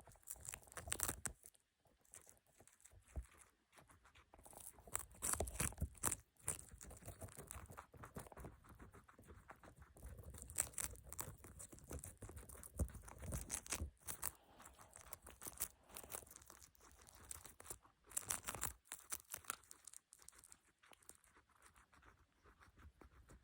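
Guinea pig crunching and rustling, in irregular bursts of small crackling clicks.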